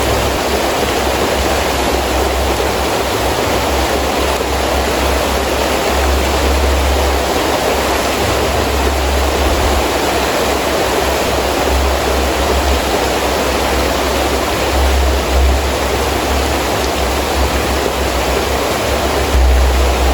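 Heavy rain falling steadily in a windstorm, a dense even hiss, with low rumbling swells of wind coming and going every few seconds, the strongest near the end.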